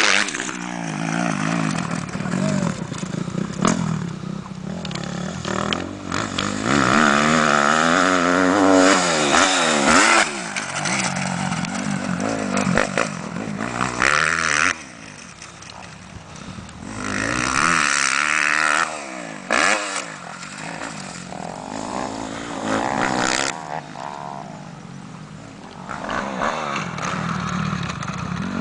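Motocross dirt bikes revving and racing past, their engine pitch climbing and dropping again and again as riders work the throttle and shift, fading for a few seconds at a time.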